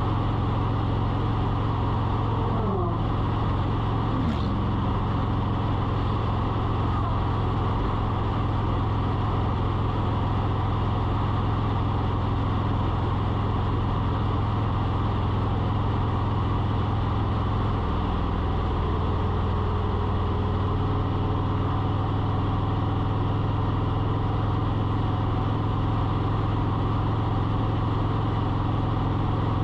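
Steady motor hum, with two falling pitch glides about three and four seconds in.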